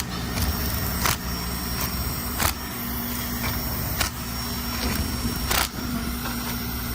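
Hand tools clicking and clinking on metal, a sharp click every second or so, as the transmission's valve body/TCM bolts are snugged down lightly, over a steady low hum.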